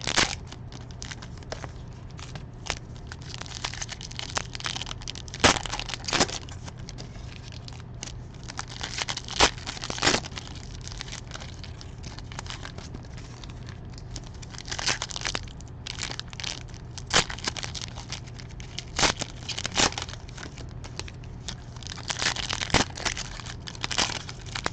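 Trading card pack wrappers from 2020 Panini Diamond Kings baseball being torn open and crinkled, with irregular sharp crackles and rustles, over a steady low hum.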